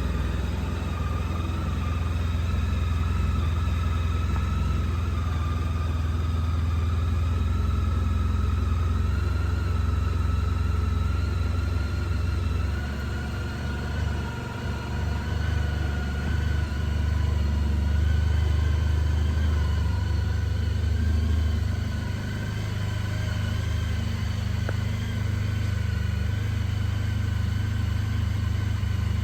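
Honda ST1300 Pan European's V4 engine idling steadily, a deep even rumble.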